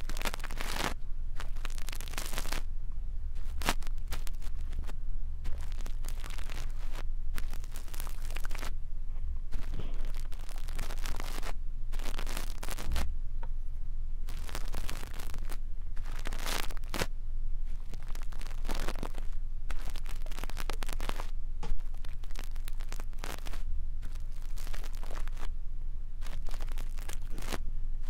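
A brush rubbed over a microphone for ASMR 'ear cleaning', giving repeated scratchy brushing strokes with a low rumble underneath.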